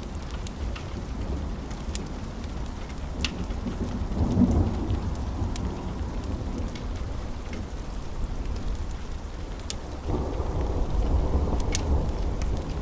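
Steady rain with rolling thunder that swells about four seconds in and again from about ten seconds, with scattered sharp crackles of a wood fire.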